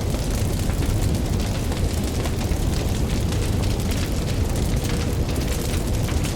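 Campfire burning with a steady low rumble of flame and many small crackles and pops from the burning wood.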